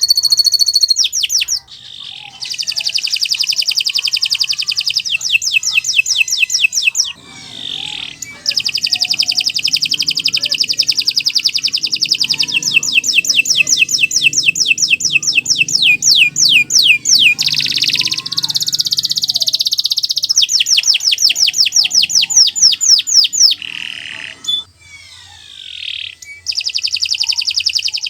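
Domestic canary singing long, loud, unbroken song phrases of rapid trills and rolls, with short pauses about two seconds in, around eight seconds in, and again a few seconds before the end.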